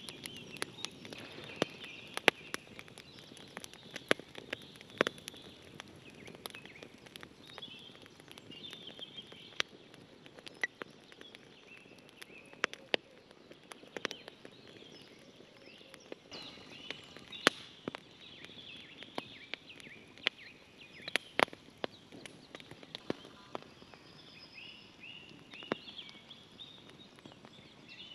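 Wood campfire crackling with sharp, irregular pops, while birds sing and chirp throughout.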